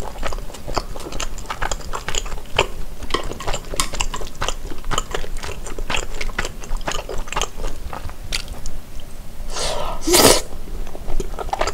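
Close-miked chewing of chewy rice-cake tteokbokki: a steady run of small wet mouth clicks and smacks, with a louder breathy mouth sound about ten seconds in.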